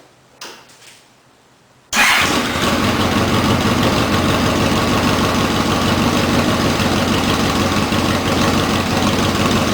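A 2007 Yamaha Royal Star Tour Deluxe's V4 engine starts abruptly about two seconds in and settles into a steady idle through American Custom bomber exhaust pipes fitted with mid-tone baffles.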